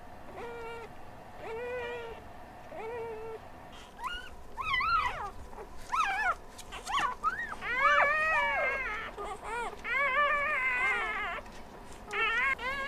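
Newborn puppies crying and whimpering in a run of short, high-pitched squeaks that rise and fall. The cries are soft for the first few seconds, then grow louder and come thick and overlapping from several pups at once.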